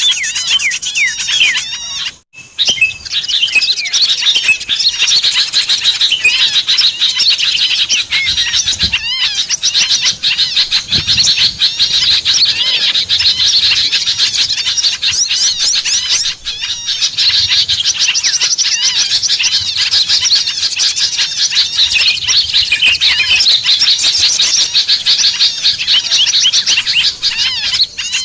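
Small birds chirping rapidly and densely in high, twittering calls, with short breaks about two seconds in and again midway. This is a bird-lure (pikat) call track used to draw in small birds.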